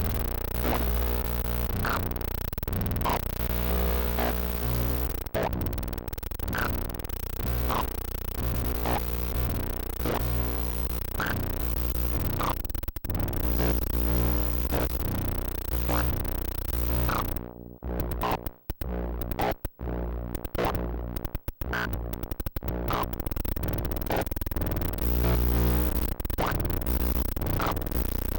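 Electronic synthesizer music: sustained bass notes under regular short blips about once a second, with the sound chopping in and out in stuttering gaps about two thirds of the way through.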